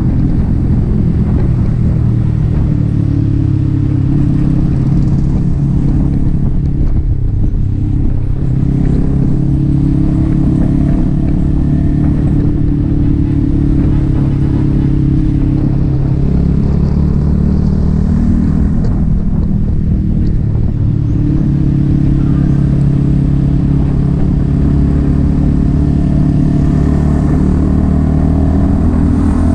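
Yamaha XSR 155's single-cylinder engine through an aftermarket M4 exhaust pipe, running at road speed while the bike is ridden, its note rising and falling several times with throttle and gear changes.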